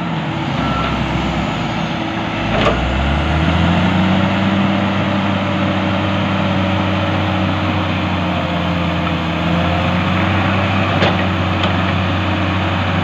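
Heavy diesel engines of an excavator and a crawler bulldozer running steadily under load, the engine note rising about three seconds in. A sharp metal clank comes about two and a half seconds in and another near eleven seconds.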